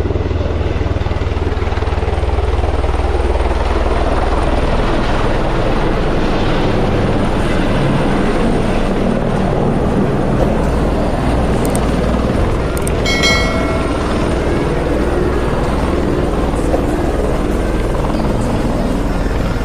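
Tour helicopter running at the helipad: a loud, steady rotor and engine noise. About thirteen seconds in, a brief high-pitched tone sounds over it.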